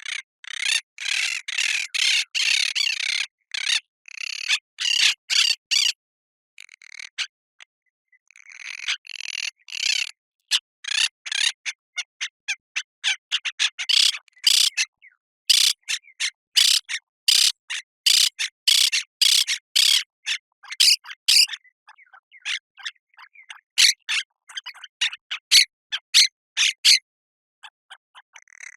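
Parakeets giving shrill, harsh squawking calls: a dense run of overlapping calls over the first six seconds, then, after a brief lull, many short separate calls in quick succession.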